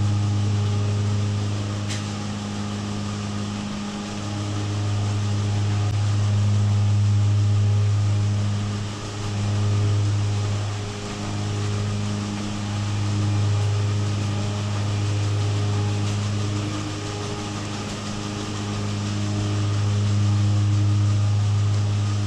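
Milking-shed machinery running with the milking platform switched on to turn: a steady deep electric hum that swells and fades every few seconds.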